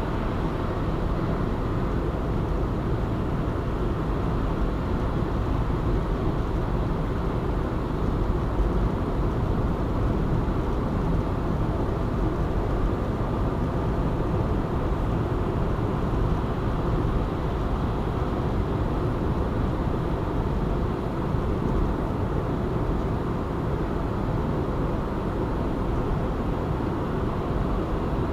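Steady road noise of a car driving along an urban ring highway: engine and tyre noise at an even level, with no sudden events.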